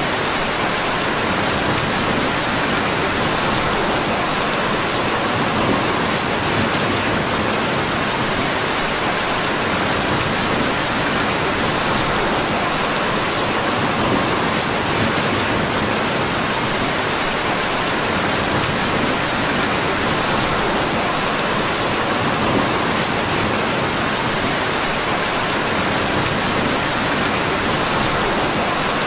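Steady rain falling and pattering on surfaces in an even, unbroken hiss.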